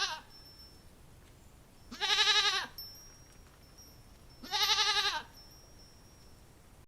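Goat bleating: the end of one bleat right at the start, then two more wavering bleats of under a second each, about two and a half seconds apart.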